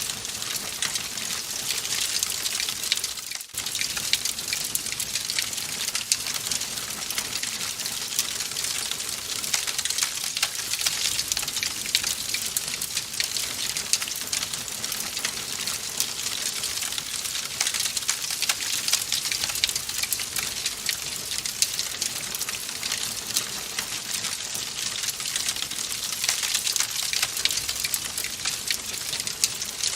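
Wood fire crackling steadily in a fireplace: a dense run of small pops and snaps over a soft hiss. It drops out for a split second about three and a half seconds in.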